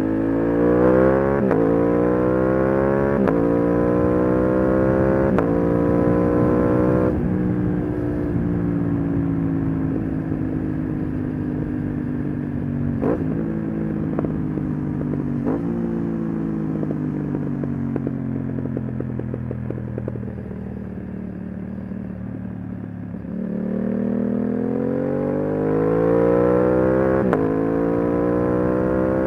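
Aprilia RS 660 parallel-twin engine through an SC-Project SC1-R exhaust, accelerating hard through three quick quickshifter upshifts, each a short break and drop in pitch. It then slows for a long stretch with two blipped downshifts and a crackle of small pops, and pulls hard again with another upshift near the end.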